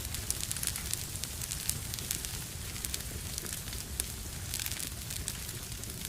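Wood fire burning in a fireplace, crackling and popping with many sharp snaps over a steady low rumble of the flames.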